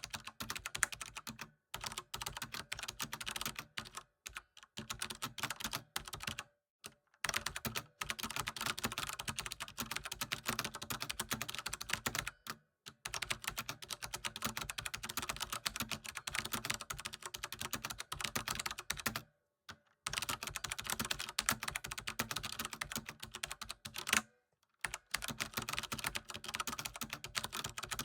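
Computer keyboard typing: rapid, continuous key clicks in runs, broken by brief pauses of under a second several times.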